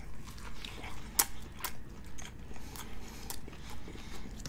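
A man biting into and chewing a bacon steak burger topped with onion rings, close to the microphone: irregular soft, wet mouth clicks and smacks.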